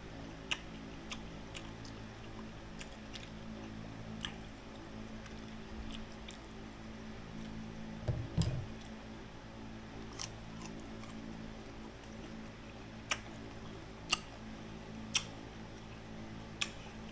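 Close-up crisp chewing of unripe green mango slices: scattered sharp crunches and mouth clicks over a steady low hum, with a low bump about eight seconds in.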